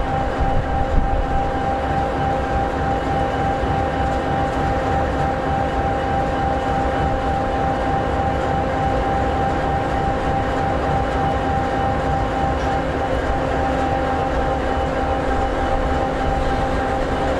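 The EMD 16-710G3B, a sixteen-cylinder two-stroke diesel in an SD60E locomotive, idling steadily: a low engine rumble with a steady high whine over it.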